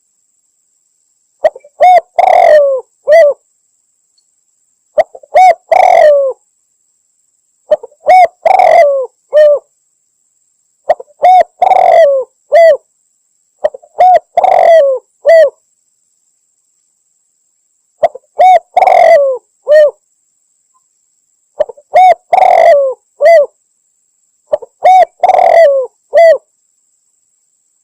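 Spotted dove (tekukur) cooing, played as a hunting lure call that is said to be a female calling a male. It gives a repeated phrase of several short hooting notes, each gliding down, about eight phrases roughly every three seconds with silence between.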